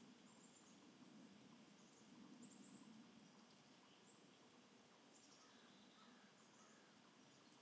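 Near silence with faint, scattered bird chirps: short high notes every second or so, and a few small gliding calls about two-thirds of the way through.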